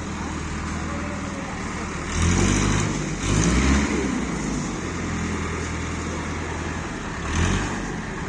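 Heavy diesel engine running steadily, revved up briefly three times: about two seconds in, again near the middle, and once more near the end.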